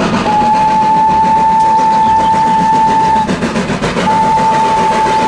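Steam locomotive's whistle blowing one long steady blast of about three seconds, then a second long blast starting about four seconds in, over steady background noise.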